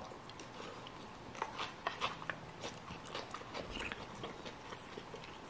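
Close-miked chewing of a mouthful of noodles: soft, wet mouth clicks and smacks scattered irregularly.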